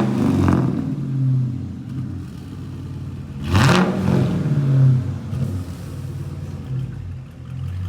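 Dodge Charger R/T's V8 engine revved twice, rising and falling back each time, the second rev about three and a half seconds in, then settling to idle.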